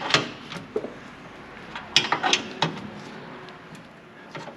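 Metal tools and exhaust parts clanking as they are handled: a series of sharp knocks, clustered about two seconds in.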